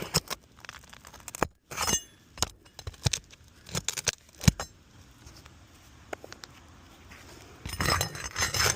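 Metal hand tool clinking and knocking against shingle nails and asphalt shingles as nails are worked loose under sealed shingles, in scattered sharp clicks with a denser scraping burst near the end.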